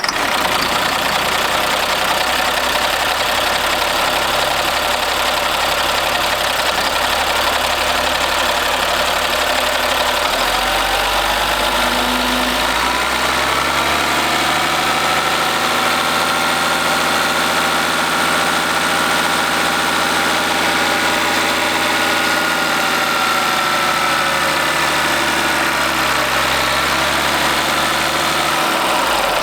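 Caterpillar C7 diesel engine of a 2006 Ford F750 bucket truck running just after starting: a steady idle, then the engine speed rises about ten seconds in, holds, and drops back to idle near the end.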